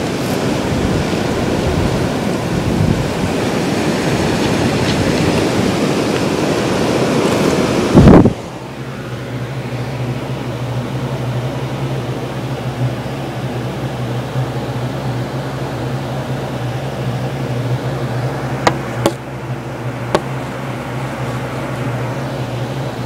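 Blizzard wind gusting hard against the microphone, cut off about eight seconds in by a loud thump like a door banging shut. After that there is a steady low hum with two faint clicks near the end.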